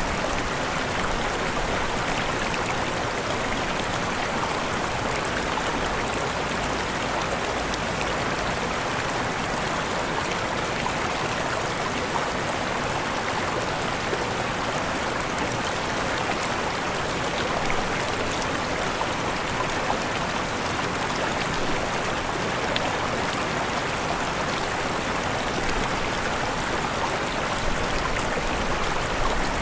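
Waterfall: falling water rushing in a steady, even roar with no change.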